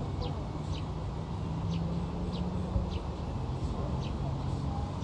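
A bird calling with short, high, downward chirps repeated every half second to a second, over a steady low rumble.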